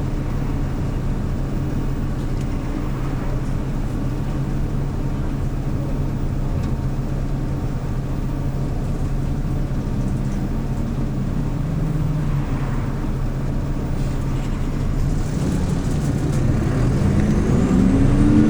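Hyundai New Super Aero City CNG city bus engine running steadily. A little past halfway its pitch rises and falls once. Near the end it climbs again, louder, with a faint high whine rising alongside.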